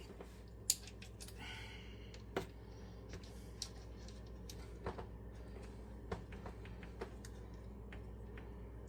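Faint, scattered clicks and light knocks from handling PEX pipe and fittings, about one every second or so, over a low steady hum.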